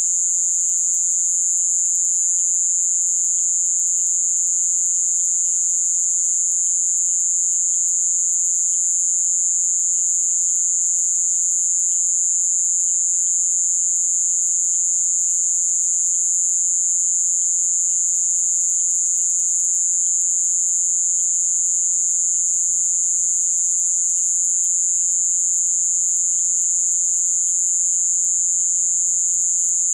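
A dense chorus of night insects in Amazonian rainforest: one loud, unbroken high-pitched trill that never lets up, with fainter scattered chirping beneath it.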